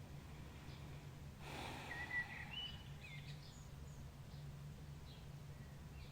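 Faint songbirds singing at dawn: a few short whistled notes and gliding chirps. There is a soft exhale about a second and a half in, over a steady low hum.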